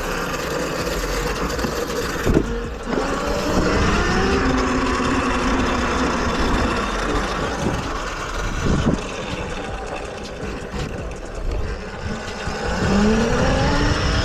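Electric dirt bike being ridden, with wind rushing over the microphone and the motor's whine rising and falling in pitch as the rider speeds up and eases off, climbing again near the end.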